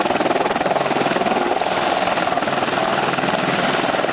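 Helicopter running close and loud, its rotor giving a steady, rapid beating over the engine noise.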